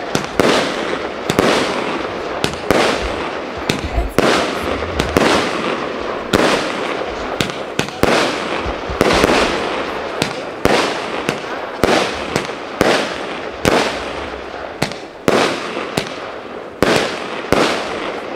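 Aerial fireworks going off in a steady run of sharp bangs, about two a second, each trailing off briefly.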